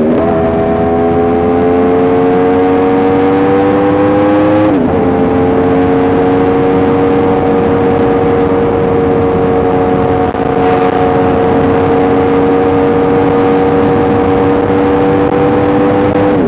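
Yamaha R1M's crossplane inline-four engine pulling under throttle, its pitch climbing and then dropping sharply at an upshift right at the start, and again about five seconds in. After that it holds a nearly steady pitch, cruising at an even speed, with a steady rush of wind beneath it.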